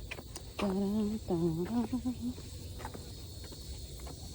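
Steady high-pitched chorus of insects such as crickets, with a short wordless hum from a person for about a second and a half about half a second in, and faint footsteps on a trail.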